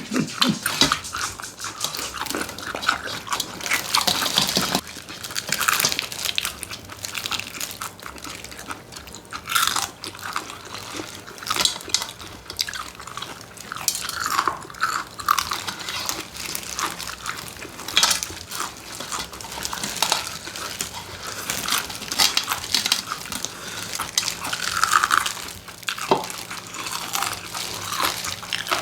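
Close-miked eating: chewing and crunching on chicken, with many irregular wet mouth clicks and brief squeaky sucking sounds.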